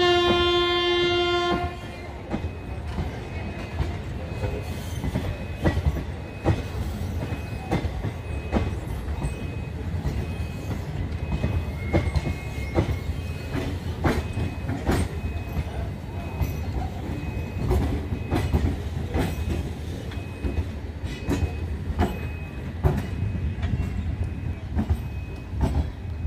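A train horn sounds once for about a second and a half, then DEMU coaches roll past with a steady rumble and irregular clicks and knocks of the wheels over rail joints.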